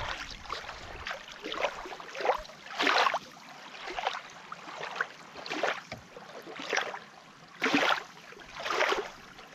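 Shallow lake water splashing and sloshing, in repeated swishes about once a second.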